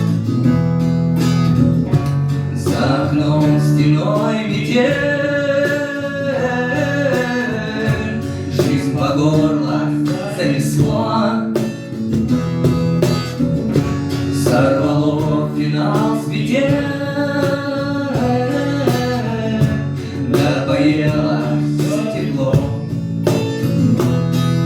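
A song performed with a voice singing over a strummed acoustic guitar.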